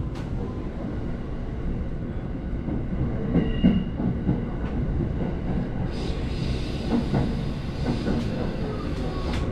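Electric commuter train heard from inside a car as it runs out of a station across points: a steady rumble with wheels clicking over rail joints and switches, and a brief high wheel squeal about three and a half seconds in.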